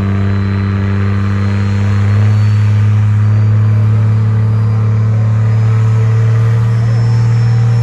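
Street diesel truck engine running hard at high, steady revs, its pitch creeping slowly upward and getting a little louder about two seconds in, with a faint high whistle slowly rising above it.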